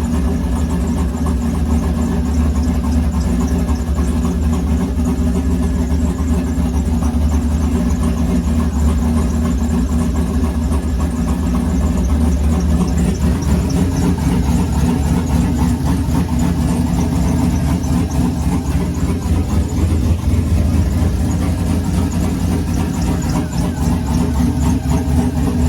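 Turbocharged LS V8 with a BTR turbo cam running steadily on its first start after the build.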